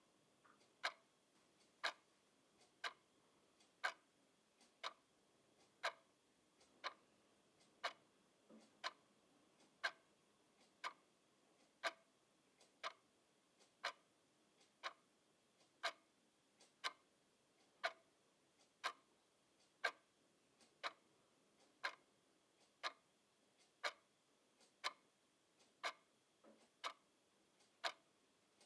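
Clock ticking steadily, about one tick a second, some ticks louder than others.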